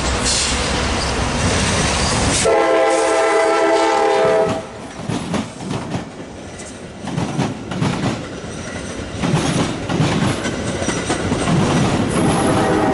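A train passing with its horn sounding a chord for about two seconds, then the rumble and clicking of wheels over rail joints, and the horn sounding again near the end.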